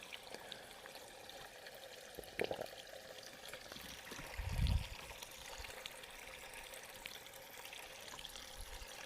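Faint trickle of running spring water. There is a soft click about two and a half seconds in and a short low thump a little past the middle.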